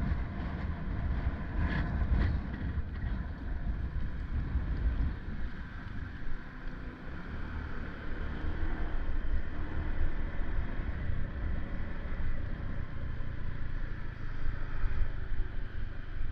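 Wind buffeting the microphone over steady road and vehicle noise while riding, a continuous low rumble that rises and falls slightly.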